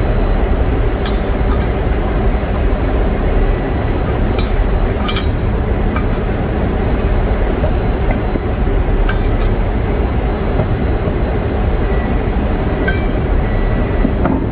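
Steady, loud engine-room rumble from running diesel generator engines, with a few short metallic clinks scattered through it.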